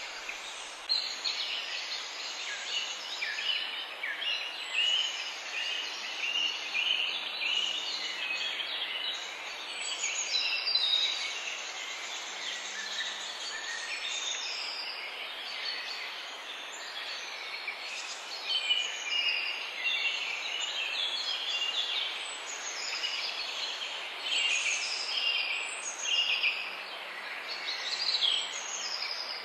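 Several birds singing at once: many short overlapping chirps and trills, over a steady hiss.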